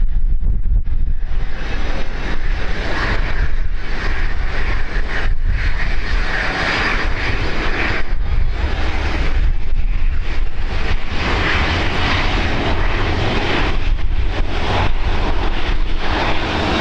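Airliner engines running loudly as an aircraft passes close by, with a steady low wind rumble on the microphone.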